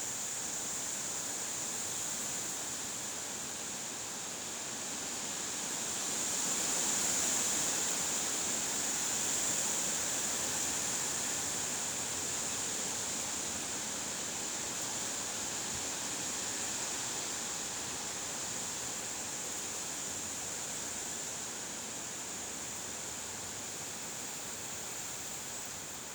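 Wind blowing, a steady rushing hiss that swells about six seconds in and slowly eases off, with a steady high hiss on top.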